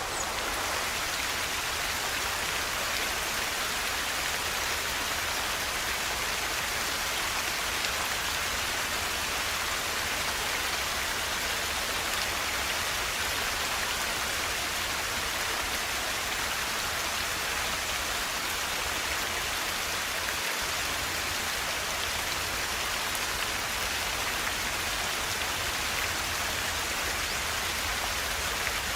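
River water rushing and splashing steadily, a dense even hiss with a low rumble underneath.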